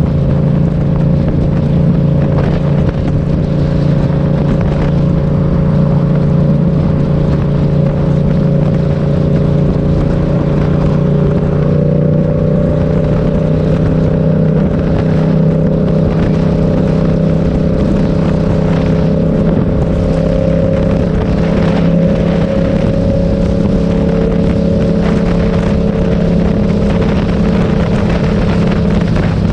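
Motorcycle engine running at a steady, nearly unchanging speed, with a constant engine note and no sharp revving.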